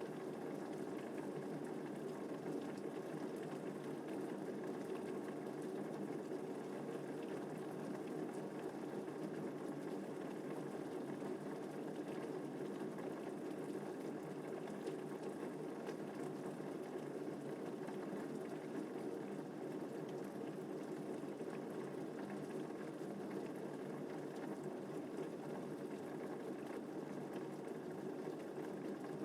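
Steady rainfall, an even, unbroken rush of noise with no thunderclaps.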